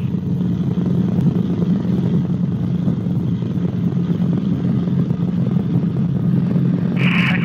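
Cabri G2 helicopter in flight: a steady, loud drone of its piston engine and rotors, heard inside the cabin.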